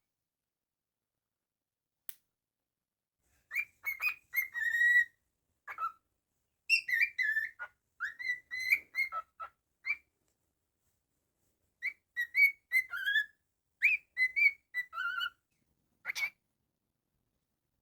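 Cockatiel whistling a tune in short, gliding notes, in three runs of phrases with pauses between them.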